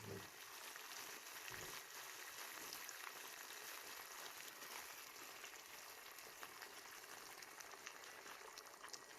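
Chicken pieces in spiced masala with water added, simmering in a pan: a faint, steady sizzling and bubbling with fine crackles.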